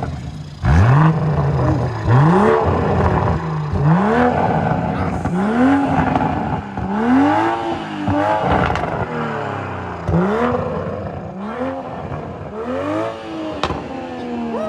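BMW M3 engine being blipped again and again while parked: the revs rise and drop about once a second, a dozen or so times in a row.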